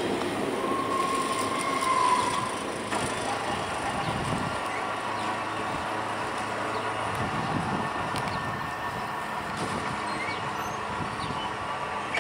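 Freight train led by an EMD SD40E diesel locomotive rolling along the track with a steady rumble, and a brief high wheel squeal from about half a second to two and a half seconds in.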